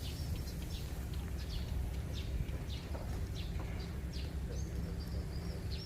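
Small birds chirping: short high calls, about two a second, over a steady low rumble.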